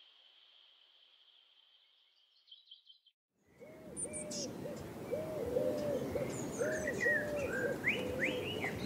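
A steady high insect-like trill fades out over the first three seconds. After a brief silence, a series of low hooting bird calls begins, repeated about twice a second over a low noisy background, with a few higher rising chirps near the end.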